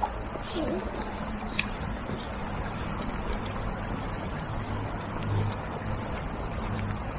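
Small birds chirping in short high calls, a cluster in the first couple of seconds and another around six seconds in, over a steady background hiss of outdoor noise.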